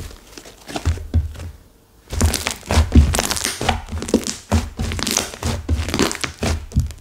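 Slime mixed with clay that has set hard being squeezed and kneaded by hand, giving dense crunchy crackles and soft thuds. The crackling is sparse at first, pauses briefly, then runs on steadily from about two seconds in.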